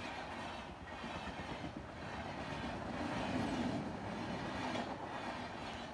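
Indian Railways sleeper coaches passing close by at speed: a steady rush and rumble of wheels on rail, swelling and dipping about once a second with the clatter of wheels over the rail joints.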